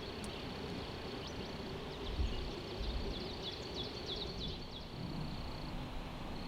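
A small songbird sings a quick run of short, high chirps over a steady hiss of rain in the woods. A thin, steady high whine runs beneath it and drops out near the end, and there are two dull low thumps in the middle.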